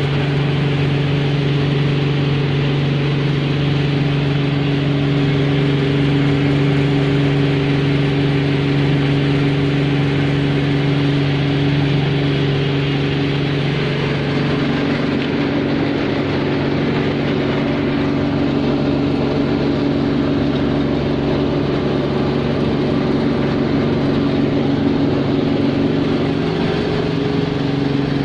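Tractor engine running steadily to power a rice mill and polisher. The steady tone shifts slightly about halfway through.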